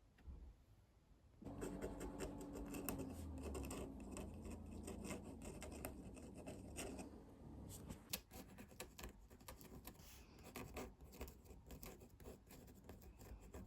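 Pen scratching on paper with paper rustling, as watercolour sheets are signed one after another. It starts about a second and a half in, and the scratching grows sparser toward the end.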